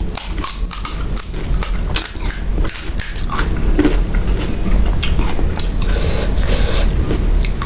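Pani puri being eaten: the crisp hollow puri shells crunching and being chewed in a run of short, irregular crackles.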